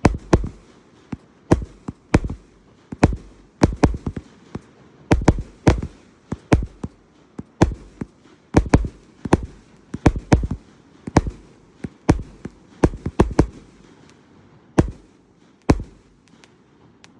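A 293-shot consumer firework cake firing its tubes one after another: a long, irregular string of sharp bangs, about two a second, some coming in quick pairs.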